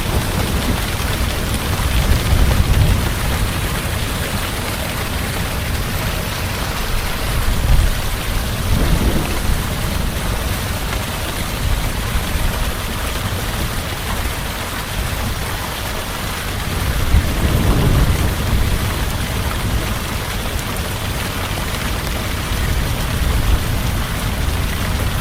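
Heavy rain falling in a steady hiss, with low thunder rumbling in and swelling and fading several times.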